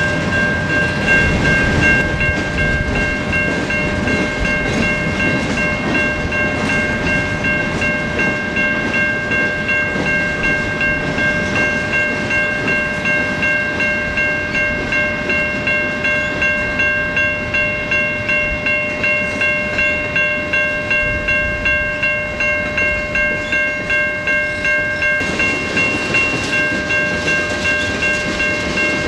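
Freight train of hopper and tank cars rolling past, wheels rumbling and clacking on the rail joints, while the grade-crossing warning bell rings in a steady, even rhythm over it.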